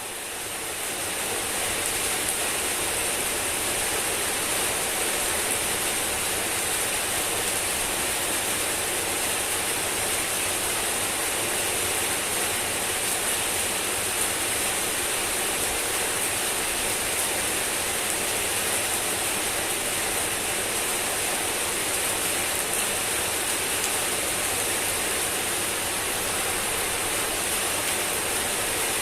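Steady rain: a dense, even hiss that fades in over the first couple of seconds and then holds level.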